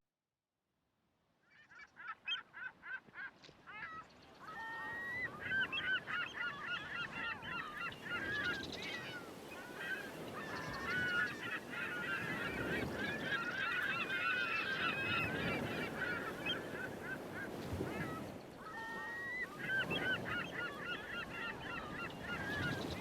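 A flock of birds calling: many short honking calls overlapping one another over a steady rushing background, starting about a second and a half in and growing louder a few seconds later.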